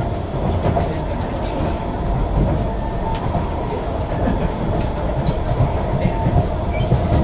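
SMRT KSF C151B metro train running at speed between stations, heard from inside the car: a steady rumble of wheels on the track with a constant mid-pitched whine and scattered light clicks.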